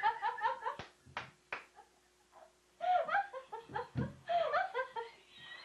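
Two women laughing in bouts at a flubbed line: a quick run of ha-ha bursts at first, a few short sharp sounds about a second in, then two more bursts of laughter.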